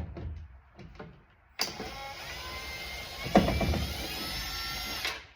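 A few light clicks and knocks, then a cordless power driver runs for about three and a half seconds with a steady whine that rises slightly in pitch, backing a screw out of a truck door panel. It stops suddenly just before the end.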